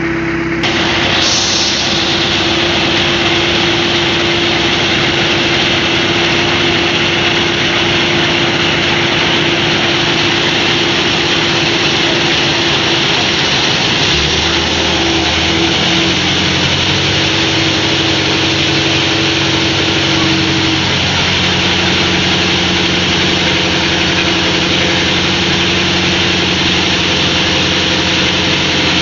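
Rice milling machine and its engine running, a loud, steady mechanical noise with a constant hum. About a second in, a fuller rush of noise sets in as the mill comes up to work. About halfway through, a deeper hum joins.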